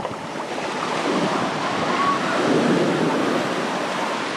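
Surf washing onto a beach, a steady rush of breaking waves that swells from about a second in and eases near the end.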